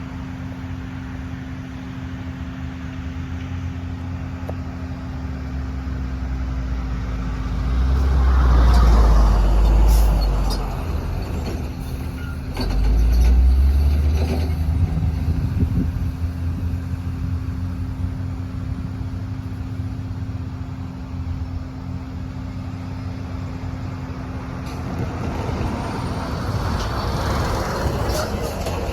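Freight train led by two GE ES40DC diesel-electric locomotives going by, their V12 diesels running with a steady low engine drone. The sound swells to its loudest twice, at about a third and half way through, then the rumble and rattle of the train's cars continues and grows again near the end.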